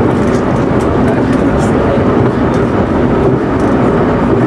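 Local electric train on the move, a steady rumble of wheels on rail heard from on board, with a few faint clicks over it.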